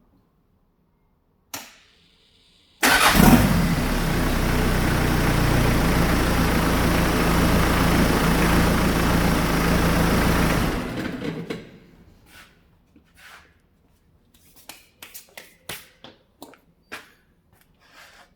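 Hyundai D4BH four-cylinder turbodiesel started up about three seconds in, running steadily for about eight seconds for an oil pressure check, then shut off. A single click comes before the start, and scattered light clicks and ticks follow after it stops.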